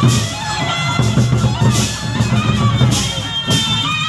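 Gendang beleq ensemble playing: large Sasak barrel drums beating a dense, driving rhythm with clashing cymbals, and a high, held reedy melody line over them.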